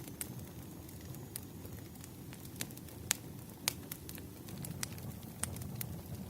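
Wood fire burning: a steady low rumble of flames with irregular sharp pops and crackles from the burning firewood, the loudest pops about three seconds in and just after.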